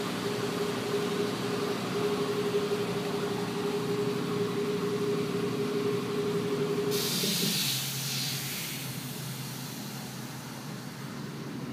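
Brakes squealing in one long, steady mid-pitched tone that stops about seven and a half seconds in. Just before it ends, a short burst of hissing air comes in, like an air brake releasing.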